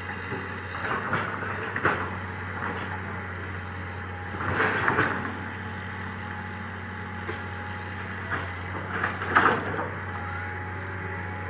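Komatsu PC200 excavator's diesel engine running steadily, with short bursts of noise from the digging work, the loudest about halfway through and again about four-fifths of the way in.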